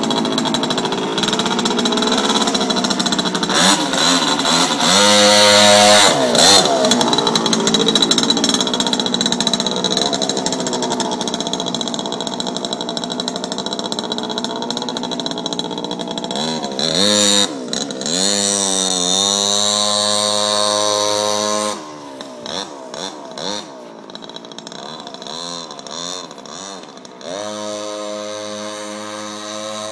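Mini bike chopper's small engine running and revving up and down as it is ridden. It is loud at first, with rising revs around a fifth of the way in and again near the middle. It turns much fainter about two-thirds of the way through, with short blips of throttle, then steadies a little louder near the end.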